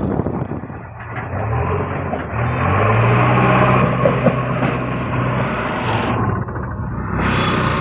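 JCB backhoe loader's diesel engine working, revving up about a second in and again a little later, then holding a steady note.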